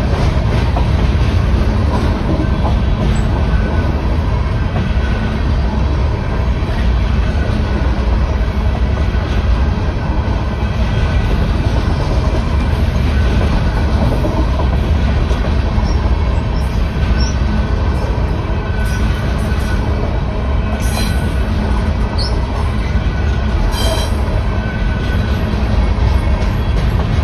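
Freight train of aluminium coal hopper cars rolling steadily past: a continuous rumble of steel wheels on the rails. In the second half come a few short, high wheel squeals and two brief clanks.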